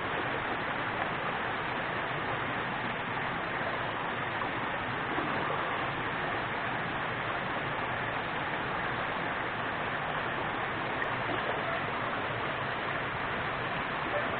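Steady rushing of water in a small forest river, a constant even wash of flowing water.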